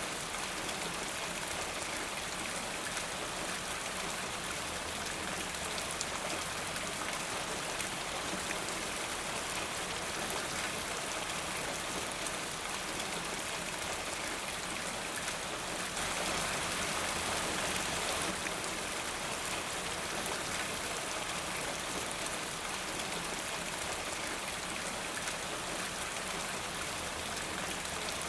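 Steady rain falling, a dense hiss of drops with fine scattered patter, briefly a little heavier about two thirds of the way through.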